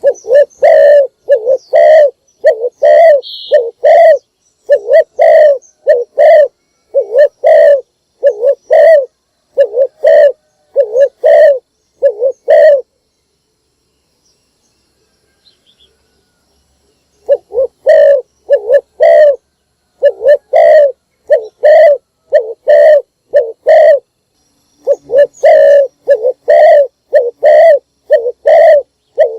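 Spotted dove cooing: a loud, steady run of short, low coos, about two a second. The calling stops for about four seconds midway, then starts again.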